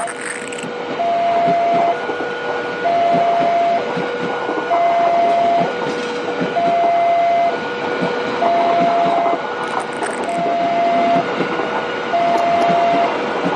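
Level-crossing warning signal sounding a two-tone alarm, a higher and a lower tone taking turns about once a second, over the noise of a train running past the crossing.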